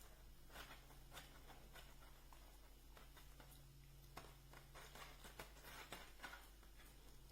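Near silence: quiet room tone with faint, irregular clicks scattered through it.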